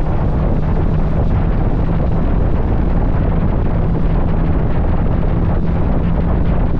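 Heavy wind rushing over the microphone of a motorcycle at highway speed, over the steady low drone of its engine at cruise.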